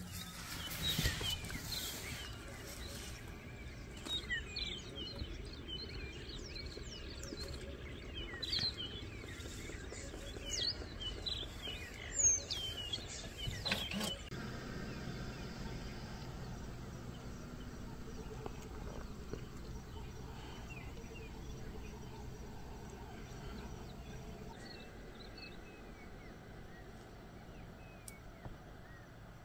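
Wild birds chirping and calling in short, quick pitch-sweeping notes, many overlapping in the first half and only a few near the end, over a low steady background hum.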